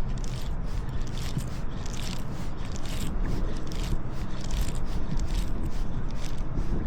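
Strong wind buffeting the microphone as a steady low rumble, with irregular short scratchy sounds over it.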